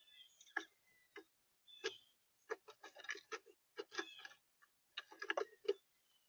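Irregular sharp tapping and clicking of birds pecking and shuffling on a bird feeder, in quick clusters, with a few short high chirps among them.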